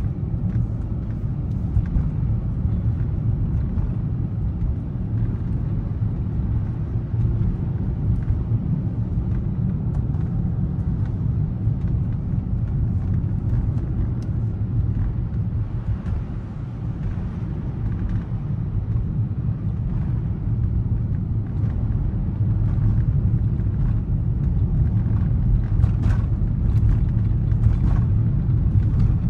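Steady low rumble of an SUV driving on a snowy road, heard from inside the cabin: tyre and road noise with the engine underneath. A few faint ticks or clicks come near the end.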